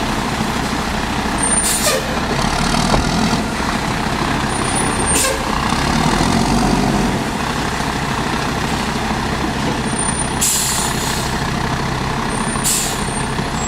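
Mack Granite garbage truck's diesel engine running steadily, with air hissing out of its air system in short bursts four times, the third one longer.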